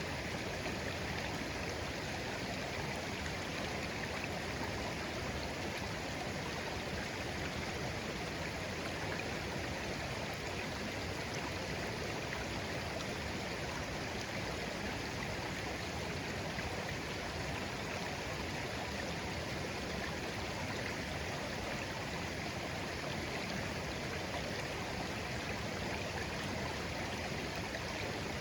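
Shallow clear stream flowing gently over stones, a steady babbling with no breaks.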